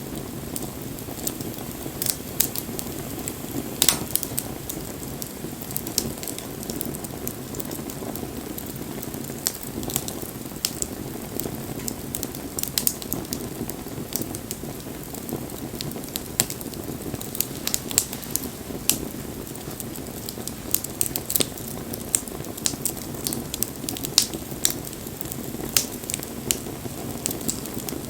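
Wood fire crackling, with many sharp irregular pops and snaps over a steady low rush of burning.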